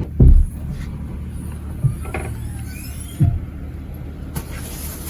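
A car engine running steadily with a low hum, with three dull thumps, the first the loudest.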